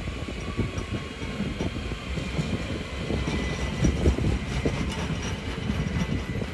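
ÖBB Cityjet electric multiple unit running past on the rails, a steady rumble with many irregular wheel knocks over the track.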